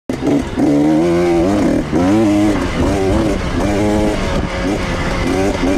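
Husqvarna dirt bike engine revving up and down under the rider's throttle on a trail, its pitch climbing and falling about once a second.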